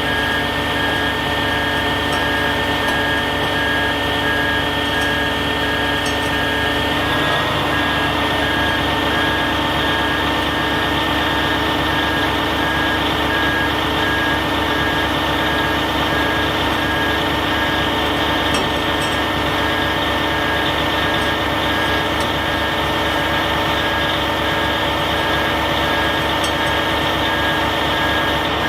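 Heavy truck's diesel engine running steadily, with a rapid high-pitched beeping over it that stops about seven seconds in.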